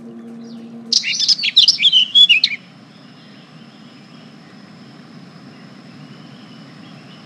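Songbirds chirping in a dense, rapid burst about a second in, lasting about a second and a half. A faint steady outdoor background with a thin high tone follows. A low steady hum cuts off as the chirping starts.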